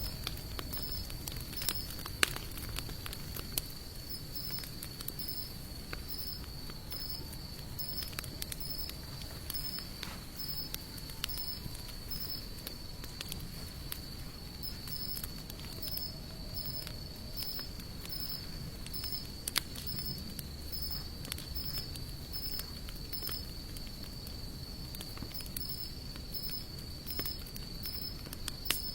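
Hardwood campfire of sawtooth oak and mixed broadleaf logs burning with scattered crackles and pops, two of them louder, about two seconds in and near twenty seconds. Behind it runs a steady high insect trill pulsing at an even pace.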